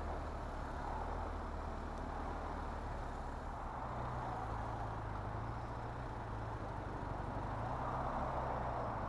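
Motorcycle engine running steadily under a rush of wind and road noise; the engine note steps up a little about three and a half seconds in.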